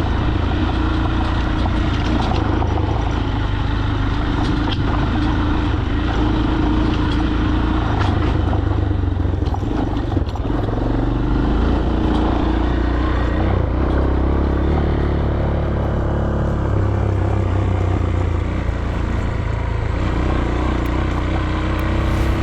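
Falat 200 cc single-cylinder motorcycle engine running steadily under way, its note shifting in pitch a few times.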